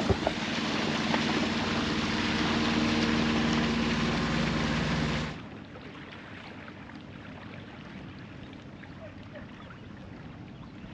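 Boat's engine running steadily with a low hum under wind and water noise. About five seconds in, the sound drops suddenly to a much fainter, even wash of water and air.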